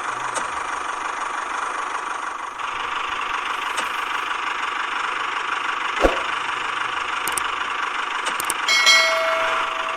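Small motor of a DIY miniature tractor model running steadily, with a sharp click about six seconds in and a brief metallic ring near the end.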